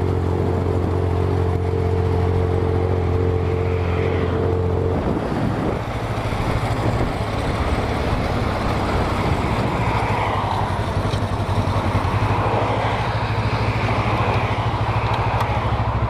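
Motorcycle engine running at steady revs, then about five seconds in it eases off to a lower pitch and carries on at the lower revs, with rushing wind noise over it.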